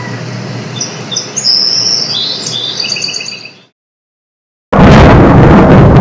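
Birds chirping in short high calls over a steady low hum and background noise, which cut off abruptly. After about a second of silence, a loud, dense noise starts suddenly.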